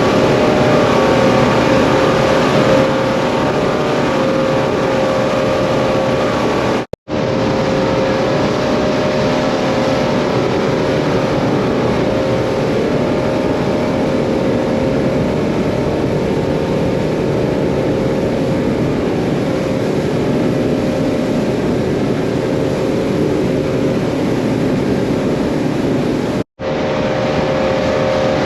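Twin Yamaha F200 four-stroke outboard motors running steadily at cruise speed, with a held tone over a broad rush of noise. The sound cuts out briefly twice.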